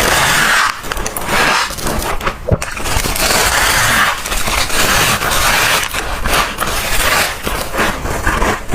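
Freezer frost crunching loudly: repeated crunchy bites and chewing of thick frost chunks, each crunch lasting about a second.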